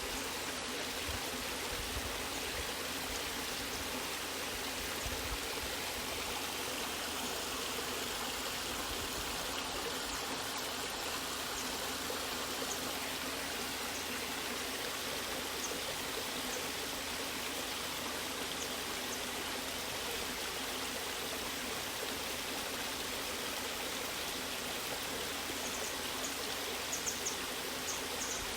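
Waterfall and stream water rushing and splashing steadily, with a few faint high ticks near the end.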